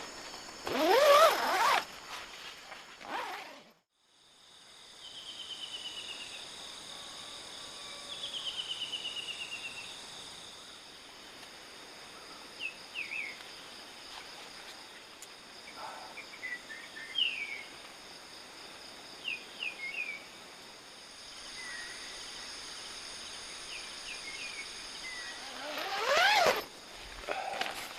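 Outdoor ambience of a steady high insect drone with scattered bird chirps and short descending trills. A loud sweeping sound comes briefly near the start and again near the end.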